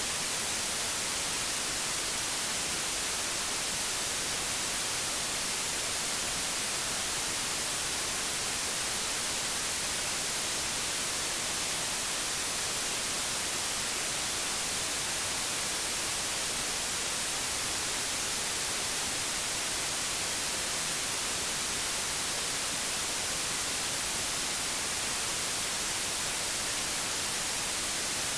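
Steady hiss of analogue television static, an even white-noise rush weighted toward the high end, unchanging throughout.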